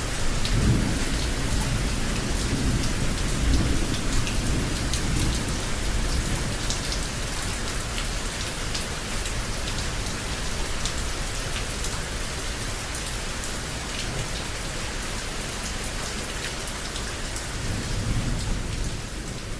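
Heavy rain falling steadily, with sharp drop spatters through it, under rolling thunder. The deep rumble is strongest in the first few seconds, fades, and swells again near the end.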